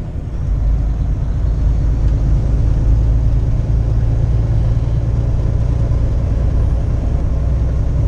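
A 2015 Kenworth T680 semi truck's diesel engine drones low and steady, heard from inside the cab while driving. The engine note drops right at the start, then settles and holds.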